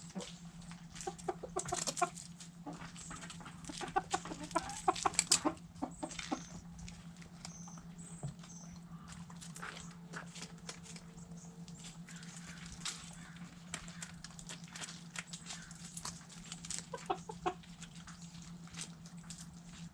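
Backyard hens clucking, busiest and loudest in the first six seconds, then sparser, amid many sharp clicks of beaks pecking at food scraps. A steady low hum runs underneath.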